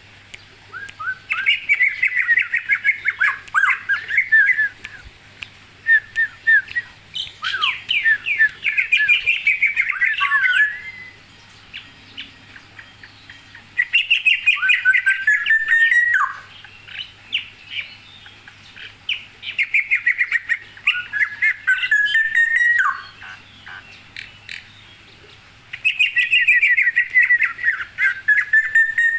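A songbird singing in five bouts of fast, varied chirping and whistled notes, each lasting a few seconds, with short pauses between them.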